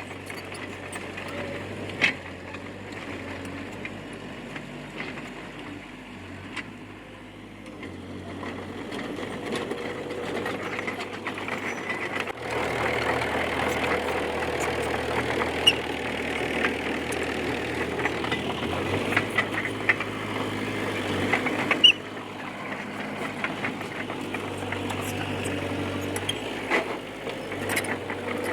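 D20P crawler bulldozer's diesel engine running steadily, with scattered sharp metallic clanks and rattles. The engine gets louder about twelve seconds in and drops back about ten seconds later.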